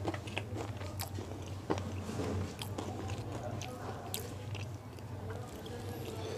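Close-miked chewing and biting of food, with scattered sharp mouth clicks and crunches, over a steady low hum.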